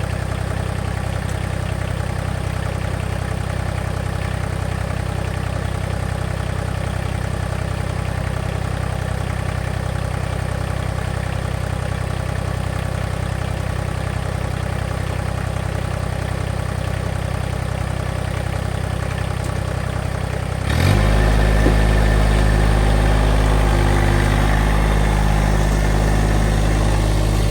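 Engine idling steadily, then after about twenty seconds speeding up quickly and running on at a higher, louder speed.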